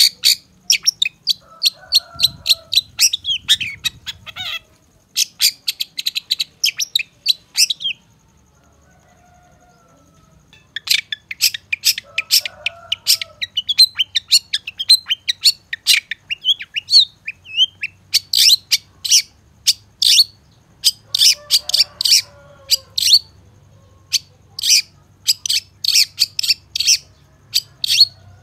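Long-tailed shrike (cendet) singing in fast runs of sharp, high chirps, with fainter, lower calls mixed in. The song pauses about eight seconds in and starts again a few seconds later.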